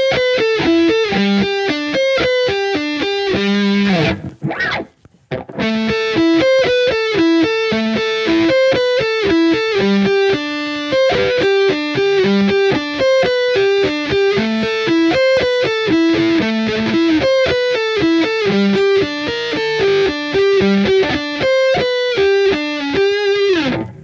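Harley Benton Fusion electric guitar on its neck humbucker, played through a distorted high-gain amp model: fast single-note lead runs, with a short break about four seconds in, ending on a note that slides down in pitch.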